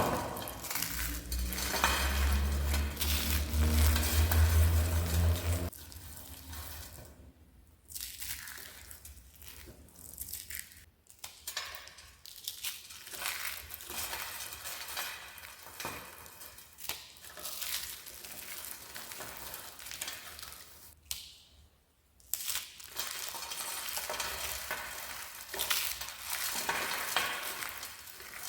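Dry soap being crushed and crumbled, a dense crisp crackling that goes on in runs with brief pauses. A loud low hum sits under it for the first six seconds, then stops abruptly.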